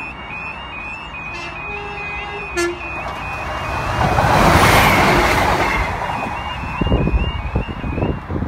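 Level crossing warning alarm sounding its repeating two-tone yelp while a train rushes past, the rush swelling to its loudest about four to five seconds in. The sound cuts off abruptly at the end.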